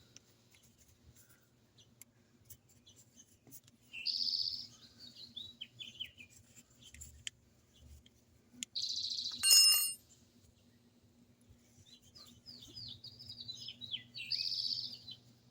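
A songbird sings three phrases of quick high chirps and trills, about four, nine and thirteen to fifteen seconds in. A brief ringing note is the loudest sound, just after the middle phrase. A faint steady low hum runs underneath.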